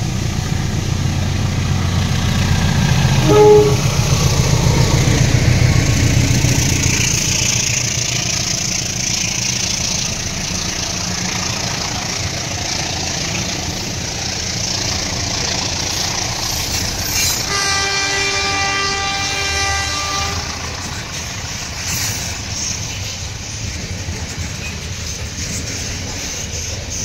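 CC 204 diesel-electric locomotive passing with a heavy engine rumble, loudest in the first several seconds, then the steady rolling clatter of a long string of hopper wagons going by. A short tone comes about three and a half seconds in, and a longer held tone lasts about three seconds around two-thirds of the way through.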